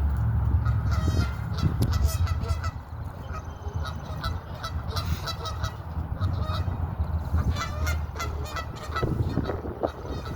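A flock of birds calling, with many short, repeated calls overlapping throughout, over a steady low rumble.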